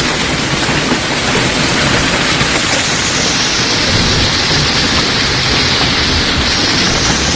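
Hail and heavy rain pelting down in a dense, steady hiss during a violent hailstorm.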